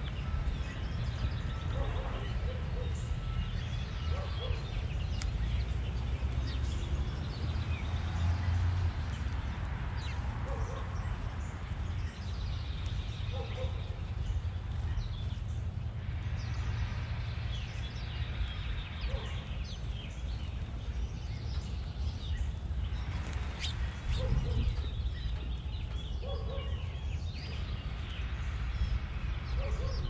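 Small backyard birds chirping and calling, many short scattered notes, with occasional short low notes and a steady low rumble underneath.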